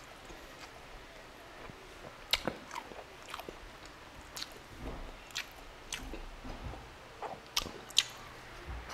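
Close-miked eating: a person chewing braised beef and rice, with scattered sharp wet mouth clicks and smacks, the loudest about two and a half seconds in and again near the end.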